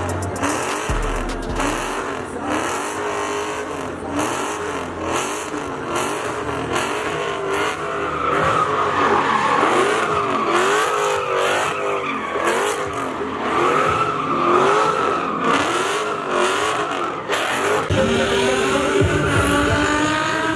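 A drift car's engine revving up and down about once a second as it slides, with its tyres squealing through the turns.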